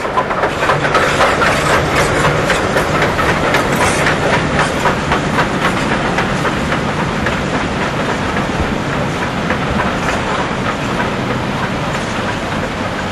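Steam-hauled passenger train running past, its wheels clicking over the rail joints in a quick rhythm for the first half, then settling into a steadier running noise.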